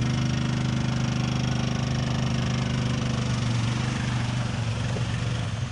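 ATV engine running at a steady pitch, getting a little quieter near the end.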